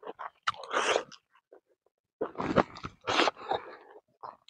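A person chewing a mouthful of rice and roasted fish eaten by hand, in irregular bursts of wet, crunchy mouth noise with a short pause in the middle.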